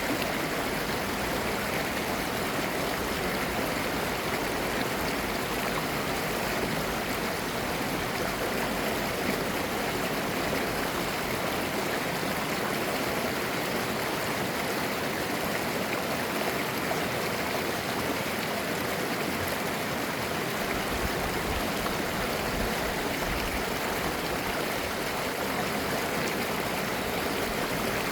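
Clear mountain-valley stream flowing over rocks: a steady, even rush of water with babbling and gurgling.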